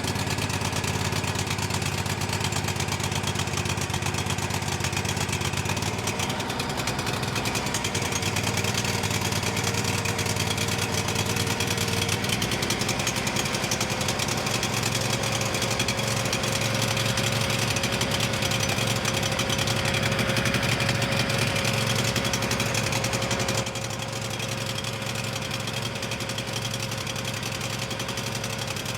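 Kohler CH25 25 hp air-cooled V-twin engine running steadily on a freshly fitted replacement carburetor after a head gasket repair. About twelve seconds in its note shifts and a steady whine joins it, and near the end it drops a little in loudness.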